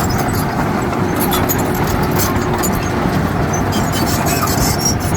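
Heavy diesel earthmoving machinery running steadily under a dense low rumble, with a faint steady whine and scattered light high-pitched clicks and clatter.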